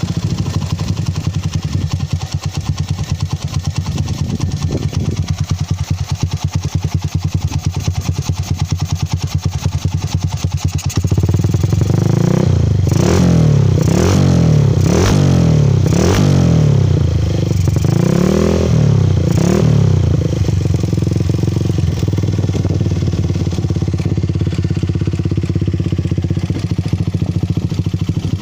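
Motorcycle engine idling through a TLR aftermarket silencer, with a deep, mellow bass exhaust note. About halfway through it is revved in a run of quick throttle blips rising and falling, then it settles back to a steady idle.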